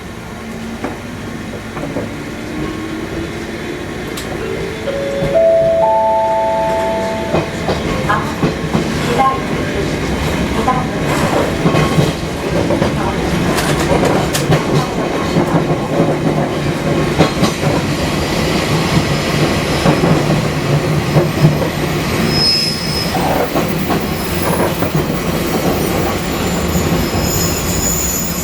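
Fukui Railway 200 series electric car pulling away: its traction motor whine rises in steps over the first several seconds, then the car runs on with steady wheel-on-rail noise. A brief high-pitched wheel squeal comes a little after two-thirds of the way through, and another near the end.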